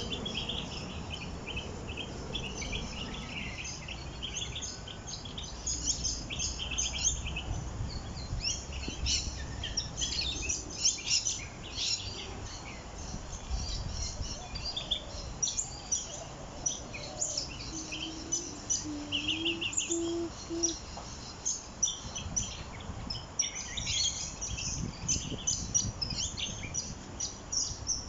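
Several small birds chirping and singing, with many short, quick high calls overlapping one another.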